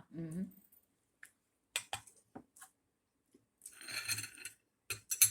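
Tableware at a meal: scattered light clicks and clinks of cutlery against plates, a brief scrape just before four seconds in, and a sharper clink near the end.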